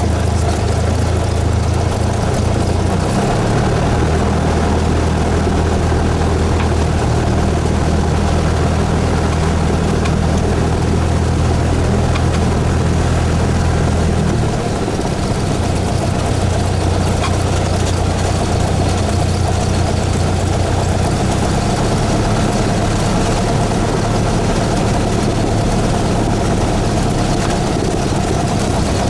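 Cessna 172S's four-cylinder Lycoming IO-360 engine and propeller running steadily; the engine note shifts about halfway through.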